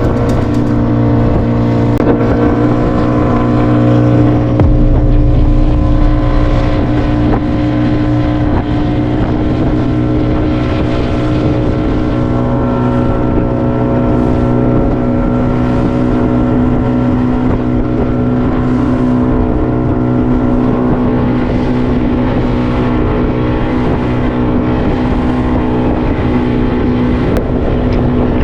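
Fishing boat's motor running steadily at an even speed.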